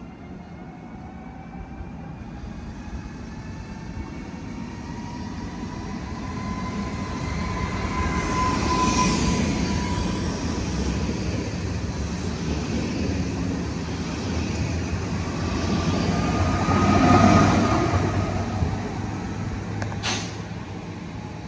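Electric multiple unit running past close by, its motor whine gliding in pitch over a wheel-on-rail rumble that builds and peaks about nine seconds in and again around seventeen seconds. A single sharp click comes near the end.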